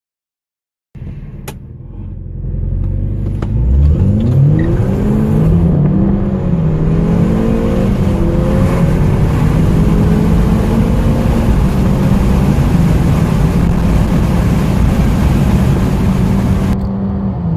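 Four-cylinder petrol car engine accelerating hard from a standstill, starting abruptly about a second in: the revs climb in rising sweeps and drop back at each gear change, over a steady rush of road and wind noise.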